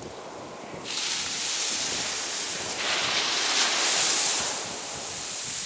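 Ocean surf: waves breaking and washing up the beach as a steady hiss, surging about a second in and again near three seconds, then easing off.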